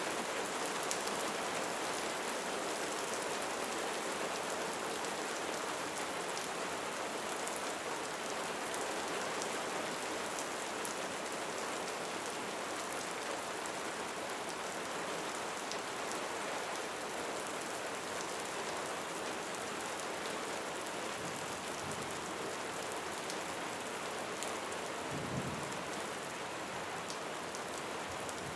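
Steady rain drumming on a roof, a dense even hiss scattered with sharper drop ticks. A brief low rumble sounds near the end.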